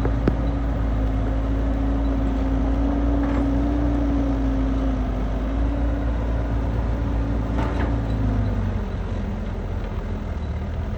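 Kubota DC70 combine harvester's diesel engine running steadily under load, its note dropping a little about eight seconds in. A short sharp click sounds just after the start.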